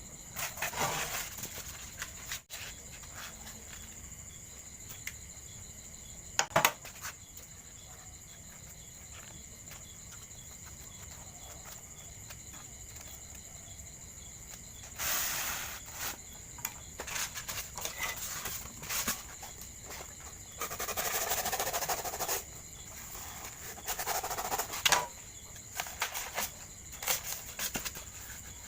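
Styrofoam pieces being handled and fitted together by hand: irregular rustling and scraping with a few sharp clicks, the longest scraping bursts in the second half, over a steady faint high tone.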